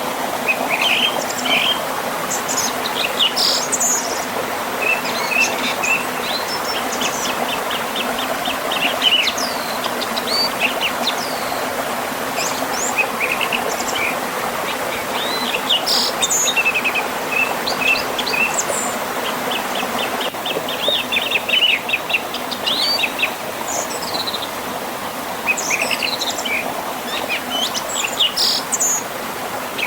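Several songbirds chirping and trilling over the steady rush of a river and small waterfall.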